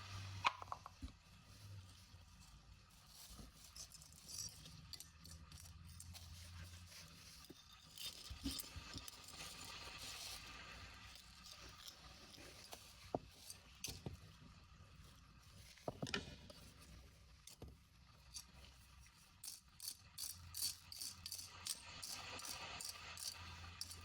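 Faint, scattered clicks, clinks and short scrapes of small hard objects being handled and picked through, with a denser run of clicks near the end.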